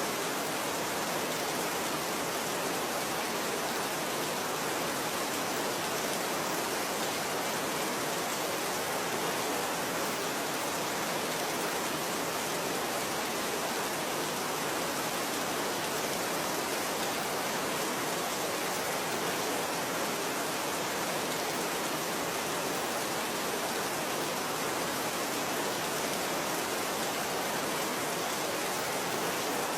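Steady rain falling, an even, unbroken hiss with no separate drops or changes standing out.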